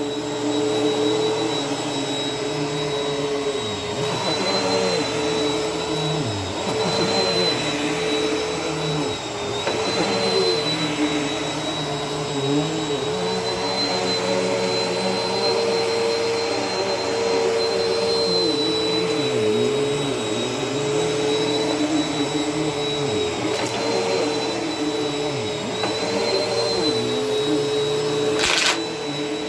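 Bissell vacuum cleaner running over carpet, a steady motor whine whose pitch dips briefly now and then as the cleaner is pushed along. A short sharp click sounds near the end.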